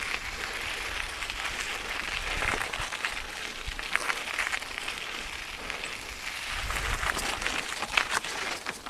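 Specialized Camber 29er mountain bike rolling over dirt and gravel trail, its tyres crunching, with many scattered clicks and rattles and a brief low rumble about seven seconds in.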